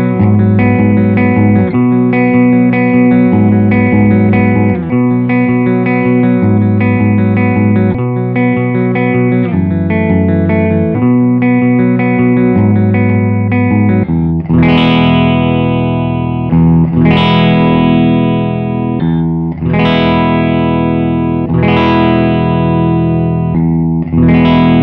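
Electric guitar with humbucker pickups, played through an amplifier: a riff of rapidly picked notes, then from about halfway through, full chords struck roughly every two and a half seconds and left to ring.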